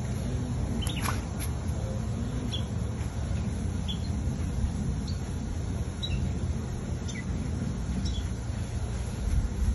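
Small birds chirping outdoors, short high notes about once a second with one falling whistled call about a second in, over a steady low rumble.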